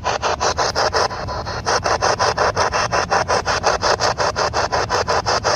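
Spirit box radio scanning rapidly through stations: a choppy stutter of static, about eight pulses a second, which briefly smooths out about a second in.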